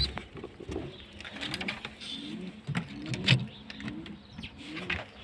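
Domestic pigeons cooing, a run of short low coos one after another, with a few light clicks and rustles from the loft.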